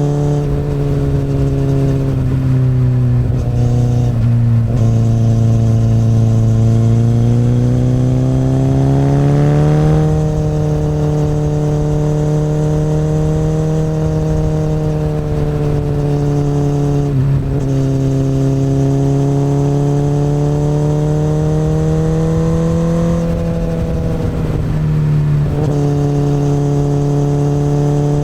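2008 Honda CBR1000RR's inline-four engine running through an Akrapovic exhaust under way. The engine note holds at moderate revs, climbs steadily about a third of the way in, and then holds again. There are a few brief dips in the revs along the way.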